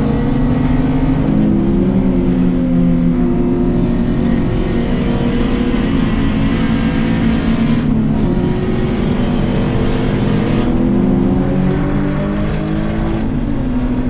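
Volkswagen race car engine running steadily under load, with a slowly shifting pitch and two brief dips about eight and eleven seconds in. It is running down a cylinder, which the driver puts down to a lost plug or something.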